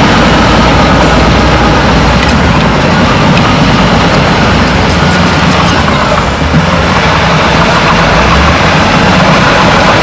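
Heavy earthmoving equipment at work: a diesel engine running loud and steady under continuous mechanical noise.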